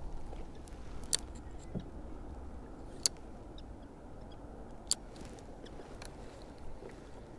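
Three sharp clicks, about two seconds apart, over a low steady rumble.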